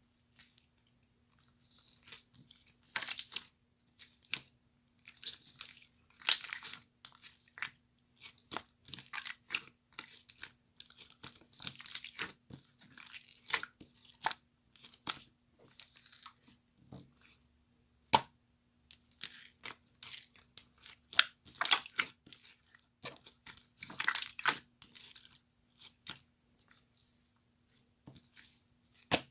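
Close-up crunching and crackling in irregular clusters of sharp bursts, some much louder than others, over a faint steady hum.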